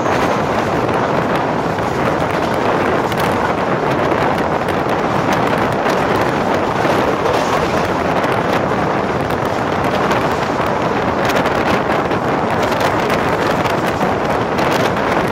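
Wind buffeting the microphone held out of a passenger coach's window, over the steady rush of the train running at high speed.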